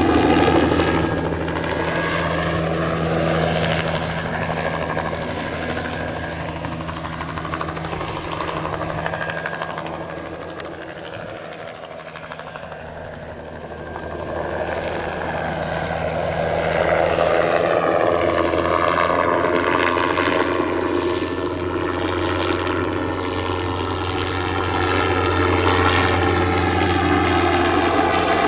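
Single-engine turbine helicopter flying a crop-spraying run, its rotor and turbine sound steady and low-pitched. It fades about a third of the way through and swells again as the helicopter comes back toward the listener, with a sweeping, whooshing change in tone as it moves.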